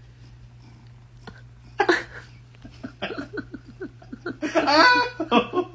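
A person laughing: a short outburst about two seconds in, then quick repeated bursts that build to a loud peak of laughter near the end, over a steady low hum.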